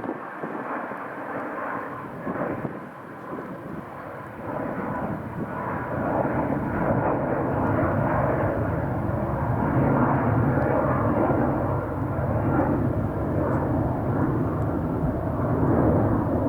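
Airbus A319-131's twin IAE V2500 turbofan engines at takeoff thrust: steady jet engine noise that grows louder about six seconds in and then holds, with a few faint steady tones over it.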